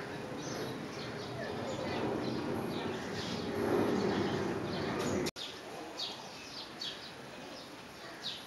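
Small birds chirping over and over in short, falling high notes, over a background murmur that swells and then stops abruptly about five seconds in.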